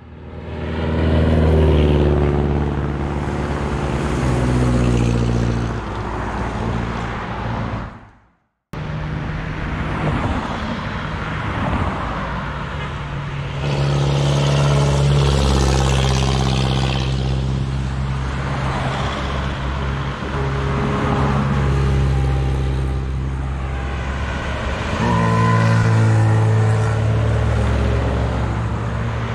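Engines of vintage open-wheeled sports racing cars driving past one after another, each engine note swelling as the car approaches and fading as it goes, with some modern road traffic among them. The sound breaks off briefly about eight seconds in.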